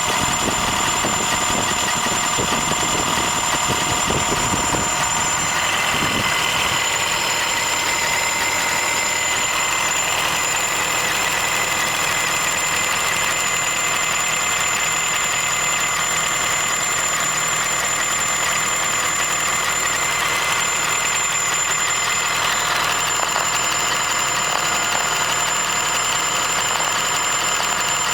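Honda Fit Hybrid (GP5) 1.5-litre four-cylinder engine running with an abnormal noise: a steady mechanical sound with several high, constant whining tones over it. A low rumble under it fades out about five to six seconds in.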